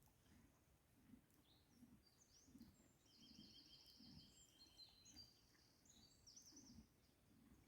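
Near silence with faint birdsong: a small bird sings several rapid trilled phrases starting a little over two seconds in, over soft irregular low thuds.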